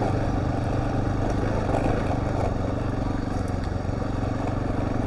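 Husqvarna TR650's single-cylinder engine running steadily, back in life after the bike was drowned and water was cleared from the cylinder through the spark-plug hole.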